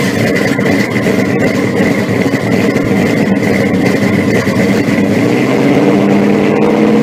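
Car engine idling loudly and steadily, with a thin steady high tone above the deep engine note.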